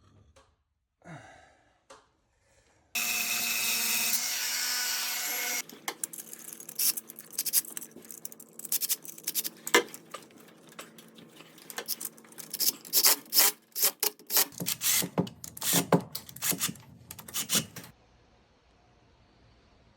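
A power tool runs steadily for a few seconds, then stops. It is followed by many irregular scraping and rubbing strokes of hand-tool work, like sawing or filing, which stop shortly before the end.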